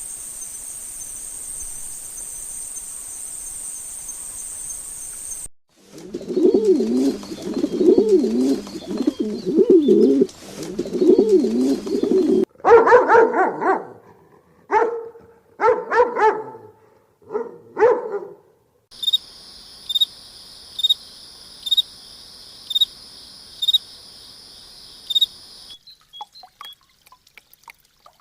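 A run of different animal sounds, one after another: a steady high shrill buzz, then a low wavering call repeated over and over, then a dog barking about six times, then a high steady trill with about one click a second, and a few faint chirps near the end.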